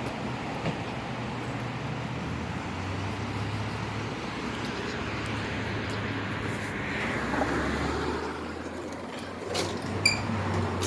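Outdoor background noise like distant traffic, over a steady low hum. A few clicks and a short high beep come near the end.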